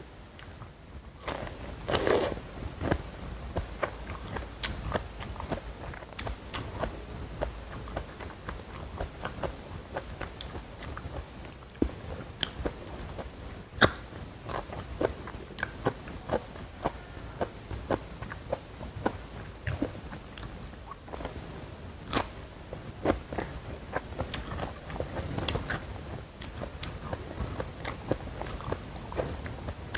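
Close-miked eating: bites and chewing of crunchy food, a steady run of short crackling crunches with a few louder bites, the first about two seconds in.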